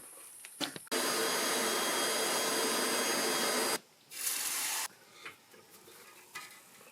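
Forge air blower running with a steady rush of air, heating the iron to be reheated. It starts abruptly about a second in, runs about three seconds, and stops, then runs again briefly for under a second.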